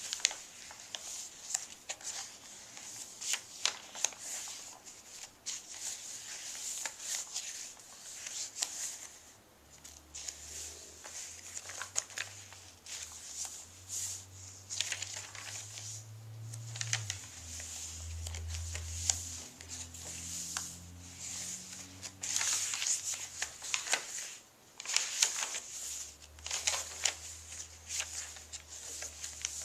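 Paper rustling and crinkling as the pages and tags of a handmade junk journal are turned and handled, in many short crackles that come and go.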